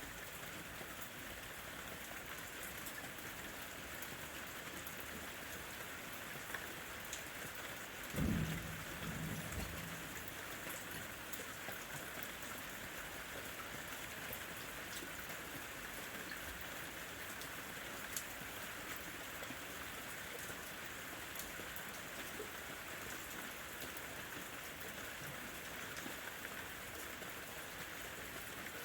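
Steady rain falling, with scattered sharp drop ticks, and a brief low rumble about eight seconds in.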